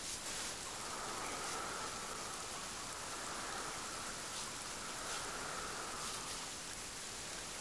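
Steady hiss of falling rain, with a faint high hum that swells and fades every couple of seconds.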